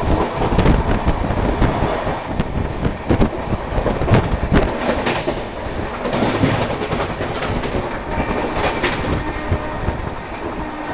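Passenger train running along the track, heard from an open coach door: a steady rumble of running noise with the wheels clattering and knocking irregularly over rail joints.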